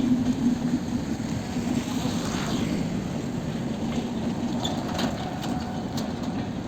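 A train running: a steady rumble with a low, on-and-off hum and a few faint clicks in the second half.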